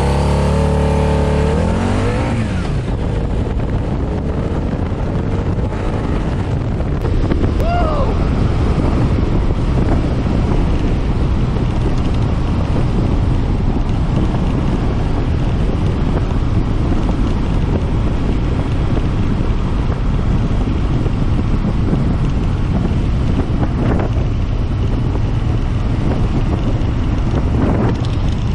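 Harley-Davidson V-Rod's liquid-cooled V-twin revving hard under full-throttle acceleration from a standstill, its pitch climbing quickly over the first couple of seconds. After that, wind buffeting the microphone at speed covers most of the engine sound.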